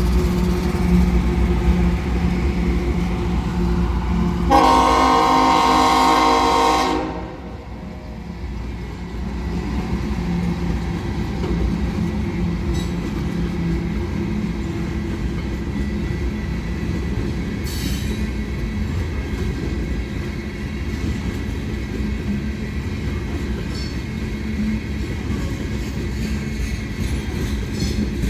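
A freight rock train's locomotive sounds one horn blast about two and a half seconds long, starting about four seconds in, over the hum of its engine. The train then rolls steadily past with a continuous rumble and clatter of wheels on the rails.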